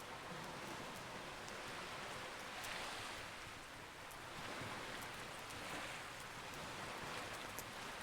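Campfire crackling, with scattered sharp pops, over a steady rushing wash of waves that swells and fades every second or two.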